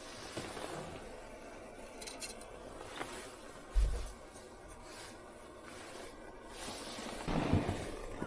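Faint scraping and rustling, with a soft low thump about four seconds in and louder rustling building near the end.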